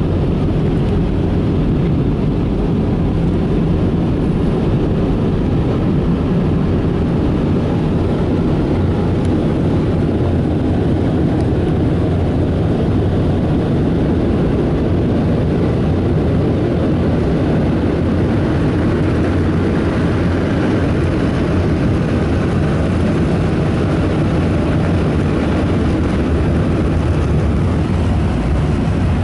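Dryer blowers of a Ryko SoftGloss XS in-bay automatic car wash running during its drying pass, heard from inside the car: a steady, loud rush of air with a deep low rumble.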